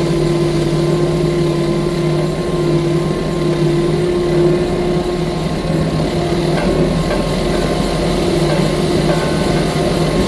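Skid steer track loader's engine running steadily, with a slight change in its low rumble about two-thirds of the way through.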